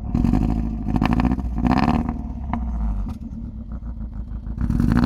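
Mercedes-Benz W202 engine running rough and uneven, its revs rising and falling: louder in the first half, dipping for a while, then picking up again near the end. It has been run without oil and blown, with the rings incomplete on the number-one piston.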